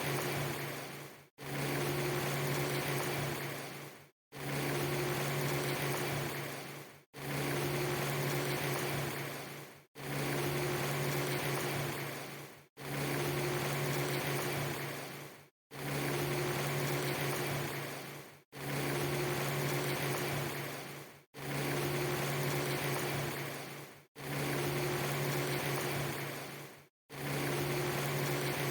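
A steady hiss with a low hum under it, a clip of under three seconds repeated over and over: each repeat tails off and cuts to a brief silence, about every three seconds.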